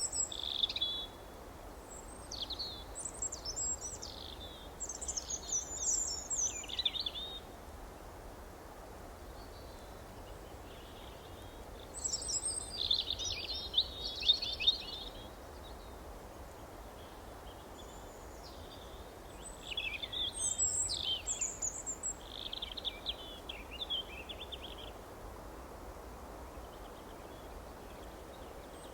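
Small songbirds singing and chirping in several bursts of quick, high, twittering phrases, a few seconds each, with pauses of several seconds between them. Under the song runs a steady low background hiss.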